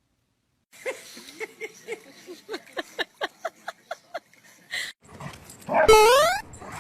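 A dog whimpering in a quick run of short, high yips, then a louder whine that rises in pitch near the end.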